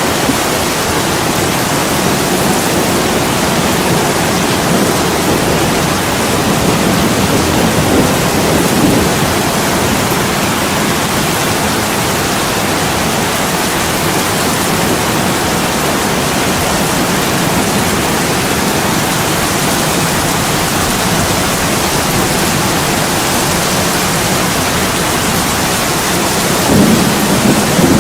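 Heavy rain pouring steadily on an attic window, a dense unbroken hiss, with a low rumble swelling briefly about eight seconds in and again near the end.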